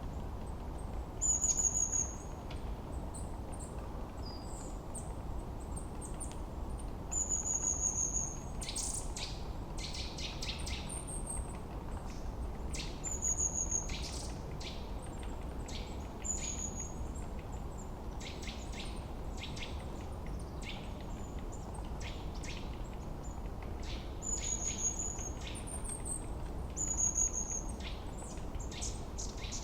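Several wild birds calling in a forest. One gives a short high whistled note every two to three seconds, and others add quick sharp chirps in clusters. Beneath them is a steady low hush of wind.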